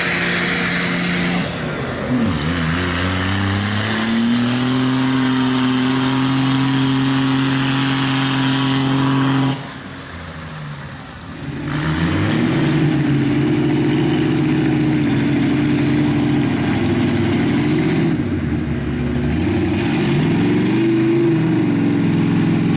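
Cummins diesel engine of a mud truck revving hard through mud. The pitch drops about two seconds in, climbs and holds high, then falls off briefly around ten seconds in before revving up again and rising and falling through the rest.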